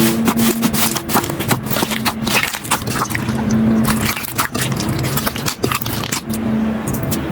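Slime being squeezed and pressed by hand, making a dense, irregular run of sharp crackling and popping clicks.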